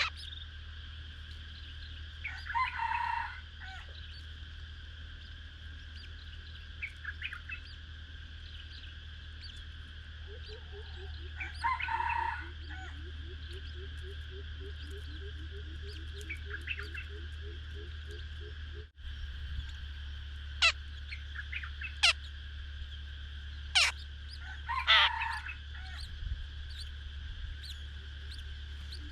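Birds calling: two calls about a second long, then a run of sharp short chirps later on, over a steady high-pitched buzz and a low hum. A steady series of low pulsing notes, about three a second, runs through the middle.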